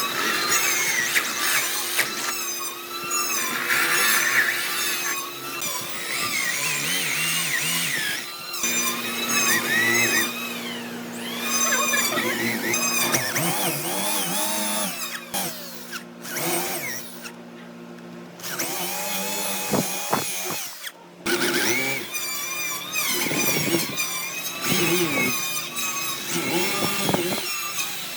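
Power tool working wood, its motor pitch wavering up and down as the load changes, with a couple of brief pauses in the second half.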